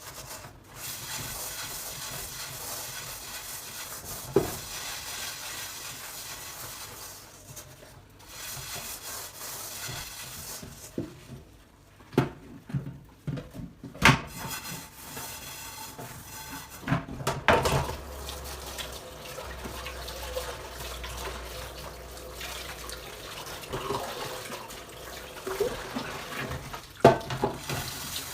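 Tap water running into a kitchen sink, stopping and starting, with dishes clinking and knocking against each other now and then.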